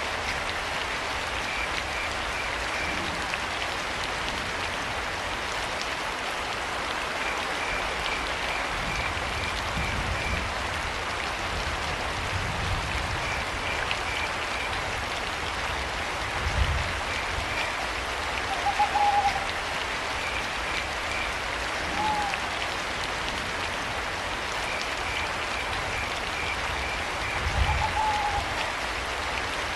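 Steady rain falling, with crickets chirping in short rapid pulsed bursts that recur every few seconds. Owl calls come three times in the second half, each one short, and two brief low thumps sound in the second half.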